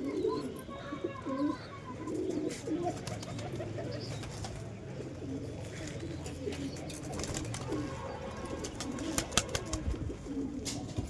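Domestic pigeons cooing, several voices overlapping in low repeated coos. A run of sharp clicks and taps comes in the middle of the stretch.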